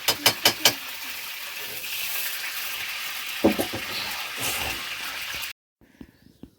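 Food sizzling and frying in a hot pan, with a quick run of metal knocks at the start, like a spatula striking the pan. The sizzle stops abruptly about five and a half seconds in.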